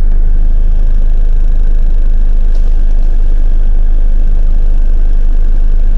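Steady, loud low rumble with a faint hiss above it.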